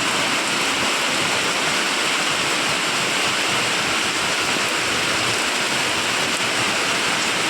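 Heavy rain pouring down: a steady, unbroken hiss of a downpour.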